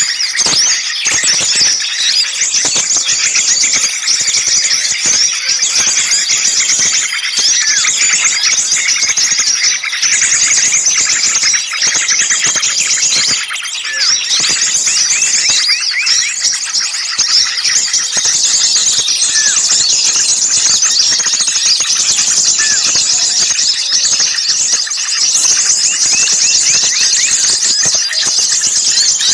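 A dense, continuous chorus of many small songbirds chirping and trilling at once, high-pitched and unbroken. It is a noisy, agitated mix of the kind played as a bird lure to draw other small birds in.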